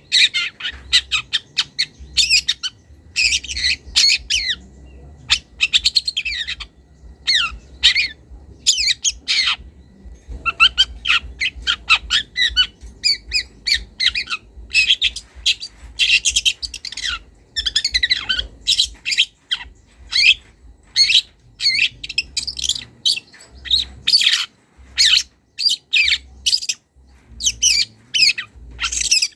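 Young long-tailed shrike (cendet) singing a fast, continuous run of short harsh chattering and squeaky phrases, with the mimicked songs of other birds woven in.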